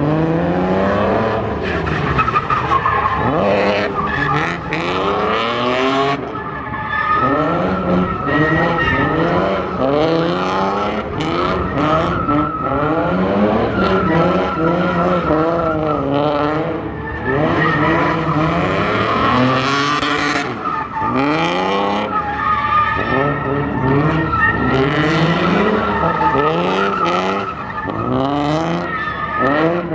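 Drift car engines revving hard, the pitch sweeping up and dropping again and again, over a near-constant high tyre squeal as the cars slide.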